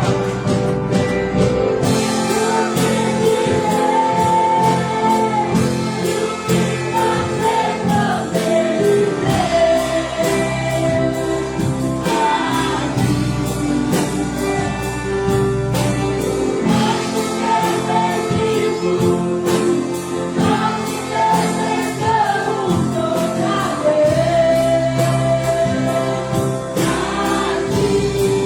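An orchestra playing a Christian worship song while voices sing the melody with it, over a steady beat.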